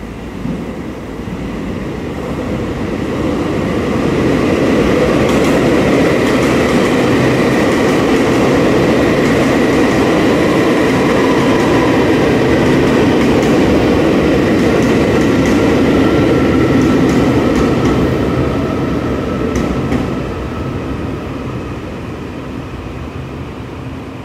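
A vehicle passing: a rumble and rush that builds over the first few seconds, holds steady, then fades away in the last few seconds, with a faint steady high ringing over it.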